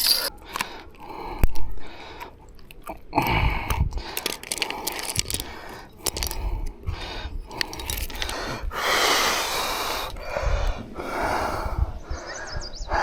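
Close handling noises from a freshly landed fish being held: scattered irregular clicks and rustles, with a few breathy exhales.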